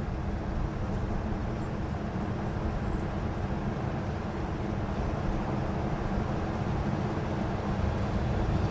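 Steady low outdoor rumble and hiss of a large open-air square, with no distinct event.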